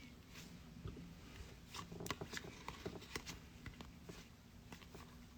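Faint handling of trading cards: a run of soft clicks and rustling slides, busiest in the middle, as cards are shuffled through and set down.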